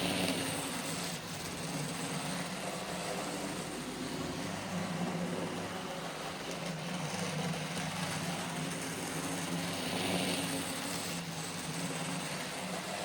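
N gauge model locomotive running on track: a steady hum from its small electric motor and drivetrain with rattling wheel noise, which grows louder near the start and again about ten seconds in.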